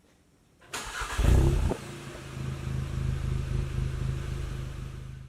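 Volkswagen Mk7 Golf GTI's turbocharged 2.0-litre four-cylinder starting through its stock muffler. After a short pause the starter cranks, the engine catches with a brief loud flare, then settles into a steady idle.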